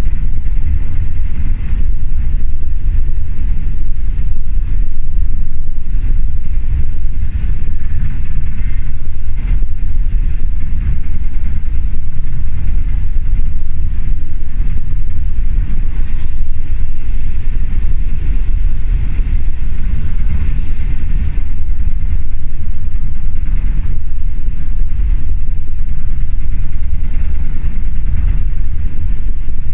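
Old passenger train running, a loud, steady low rumble with rattling and jolting of the carriage. There is a brief high squeak about 16 seconds in.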